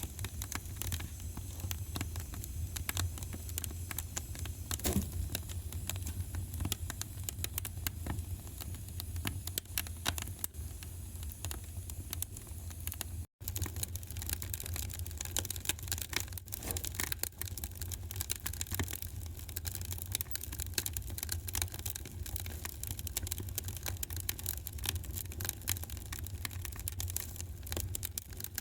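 Wood fire in a fireplace crackling, with dense irregular pops and snaps over a low steady rumble. The sound drops out for an instant about 13 seconds in.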